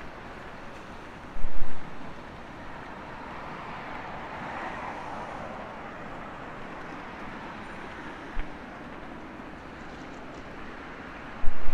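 City street traffic noise with a vehicle passing by about midway, its sound swelling and fading. A few brief low thumps on the microphone, the loudest about a second and a half in and again near the end.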